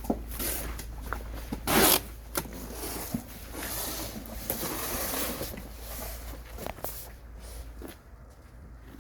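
Hand-packing sweet potatoes: irregular rustling, scraping and light knocks as the tubers are handled and set into boxes, with a loud brief rustle about two seconds in.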